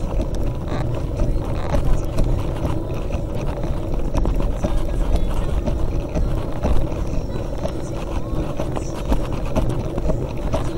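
A mountain bike ridden over a rough trail: a steady low rumble with many small rattles and clicks from the bike.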